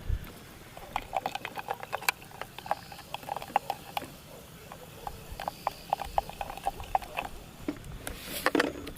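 Rapid, irregular light clinks and taps, several a second, as a mint-and-Sprite mojito is mixed in a glass, with a brief rush of noise near the end.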